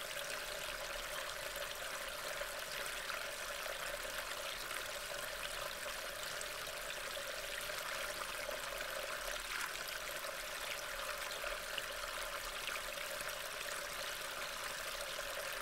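Steady rain falling, a constant hiss with faint scattered patter of drops, picked up by a trail camera's microphone.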